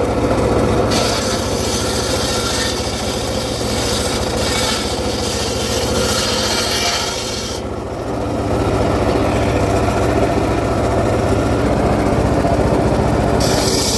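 Circular saw cutting acacia wood: a steady machine hum under a continuous rasp from the blade in the timber. The high hiss of the cut thins out from about halfway and comes back near the end.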